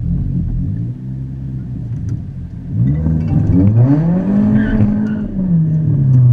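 Volkswagen Scirocco's engine and exhaust running, then revved hard about three seconds in: the note climbs to a peak and falls away again as the throttle eases.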